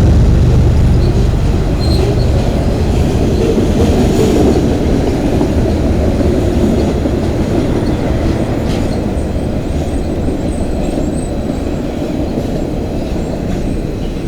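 Freight cars of a CN manifold train rolling past: a steady low rumble with wheel clatter, and a faint high wheel squeal about two-thirds of the way through. The sound slowly eases off.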